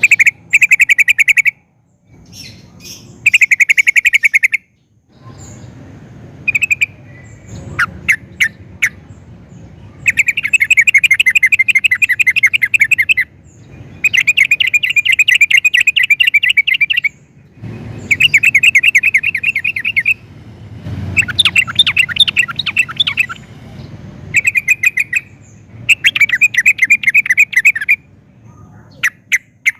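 Yellow-vented bulbul (trucukan) singing: a long run of fast, rattling trilled phrases, each one to three seconds long with short pauses between them, and a few single sharp notes in between.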